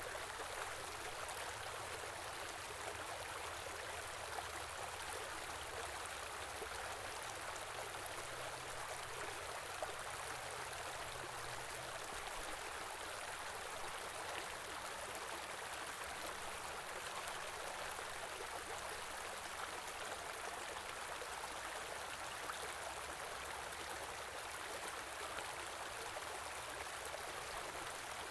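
Small river rushing and babbling steadily.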